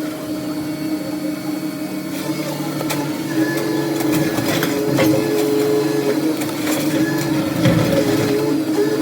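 A machine running steadily with a pitched hum, with scattered knocks and clatter on top.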